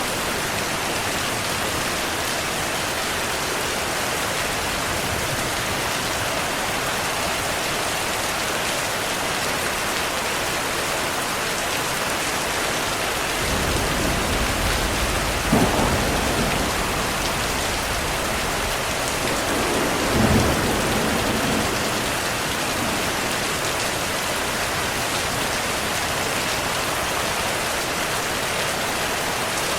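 Heavy rain falling steadily throughout. About halfway through, thunder rumbles in for several seconds, with two louder peaks a few seconds apart before the rumble fades back under the rain.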